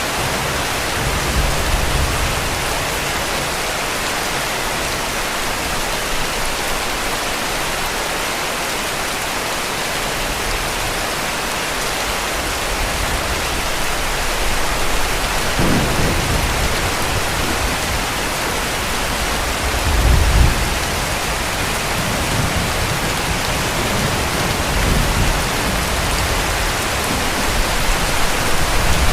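Heavy rain falling steadily, with several low rumbles of distant thunder in the second half, the loudest just past the middle.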